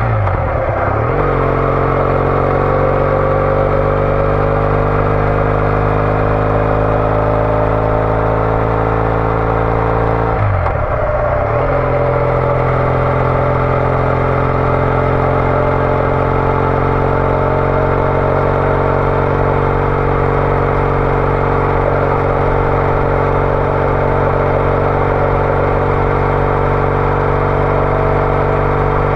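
Triumph Bonneville T214's 865 cc air-cooled parallel twin running through a TOGA aftermarket exhaust while riding. The engine note climbs slowly, breaks briefly near the start and again about eleven seconds in, then picks back up.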